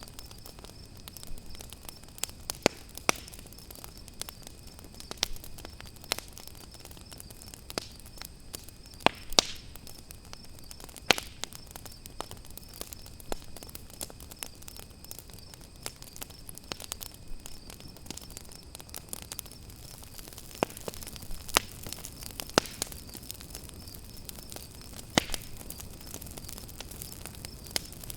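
Campfire crackling with sharp, irregular pops, over a steady high, pulsing chirp of crickets.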